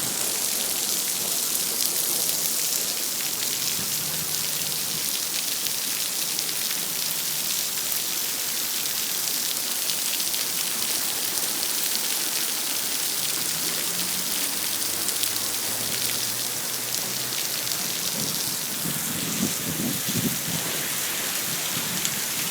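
Heavy rain falling steadily on surfaces in a thunderstorm.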